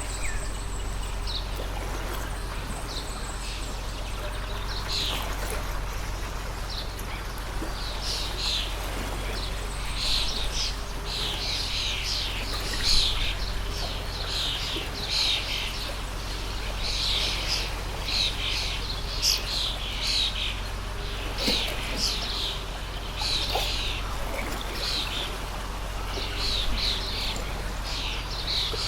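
Small birds chirping and calling repeatedly over the steady rush of a flowing stream.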